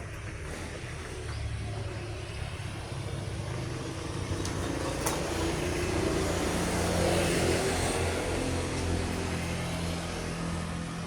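A road vehicle driving past, its engine and tyre noise building to a peak about seven seconds in, then fading.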